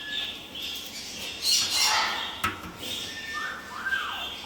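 Parrots squawking and chattering, with a few short gliding whistled calls near the end and a single sharp click about halfway through.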